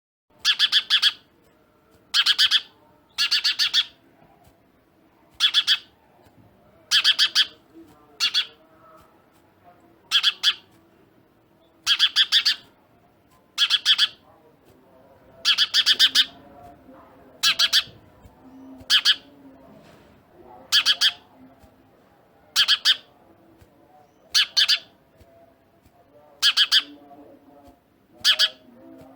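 A bird giving loud, harsh squawking calls, one every second and a half to two seconds, about seventeen in all.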